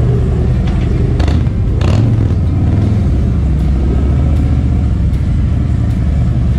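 Motorcycle engine running steadily with a low rumble, with two short bursts of hiss about one and two seconds in.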